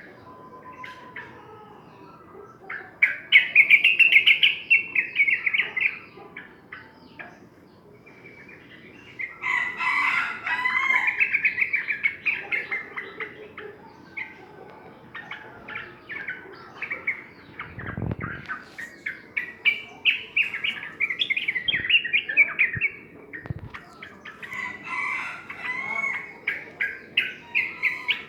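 Yellow-vented bulbul singing in four bouts of quick chattering notes with short pauses between them, as a lure song to set a quiet bird singing. A single low thump comes about two-thirds of the way through.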